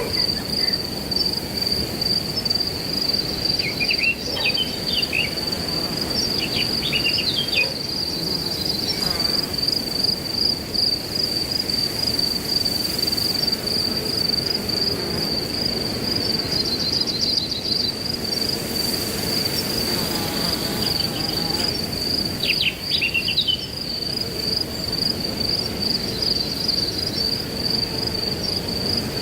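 Crickets trilling in one unbroken, steady high tone over the rushing of wind through grass, with short bursts of bird chirps a few times.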